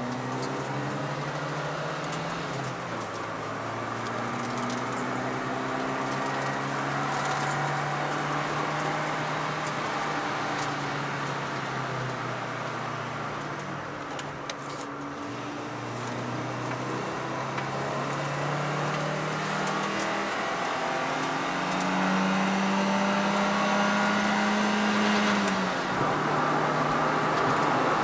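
Car engine heard from inside the cabin, driven hard with the revs rising and falling through the gears over road and tyre noise. There is an upshift about three seconds in, the engine eases off around halfway through, and it then pulls hard and rises again before another upshift near the end.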